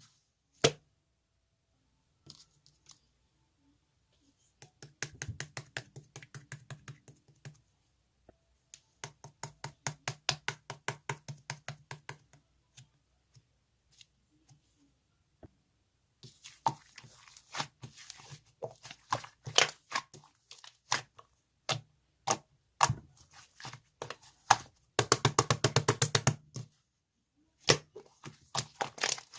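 Bursts of rapid close-up tapping and crinkling handling sounds, several seconds long, separated by short pauses.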